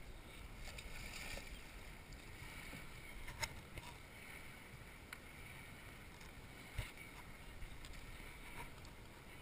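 Faint water sounds around a sea kayak on calm water, with a couple of soft knocks, one about three and a half seconds in and one about seven seconds in.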